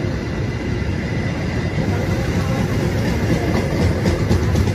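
Passenger train coaches rolling past: a steady rumble of steel wheels on rail. A quick run of clickety-clack over the rail joints comes in near the end.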